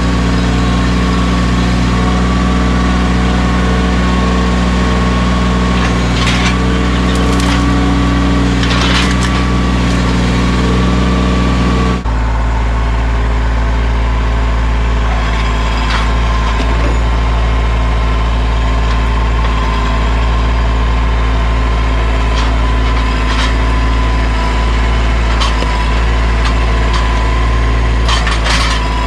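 Mahindra 1626 sub-compact tractor's diesel engine running steadily under work, with a few brief knocks and clatters along the way.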